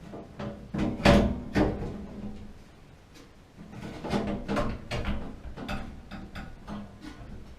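A string of irregular knocks, clicks and scrapes of hard objects being handled and set down, loudest about a second in, over a faint steady hum.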